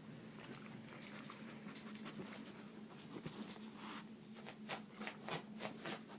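A Yorkie making a run of raspy, noisy snorts that sound like a car's starter cranking without catching. They are scattered at first, then come in a quick, even run of about four a second near the end.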